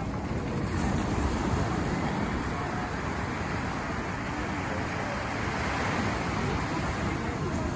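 Steady rushing noise of wind and surf at the shore, heaviest in the low end.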